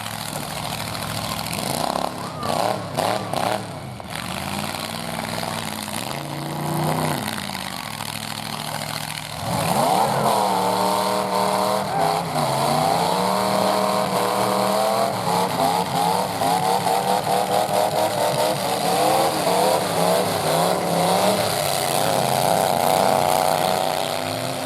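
Full-size pickup truck engines running during a demolition derby heat, with a few sharp knocks about two to three seconds in. About nine seconds in, an engine revs up hard and keeps running at high revs, its note pulsing and wavering.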